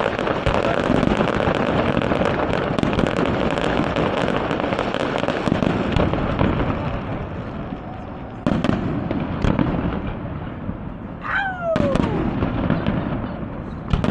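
Fireworks display: a dense run of crackling and popping bursts that thins out about halfway, followed by a few separate sharp bangs and one falling whistling tone near the end.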